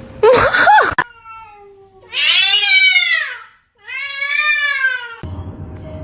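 A cat gives two long, loud meows, each rising and then falling in pitch, after a short loud cry that cuts off abruptly about a second in.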